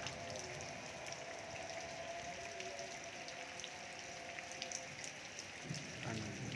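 Steady rain falling, with scattered raindrops ticking close by.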